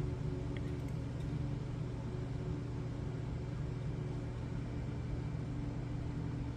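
A steady low hum with faint steady overtones, unchanging throughout, with no distinct events.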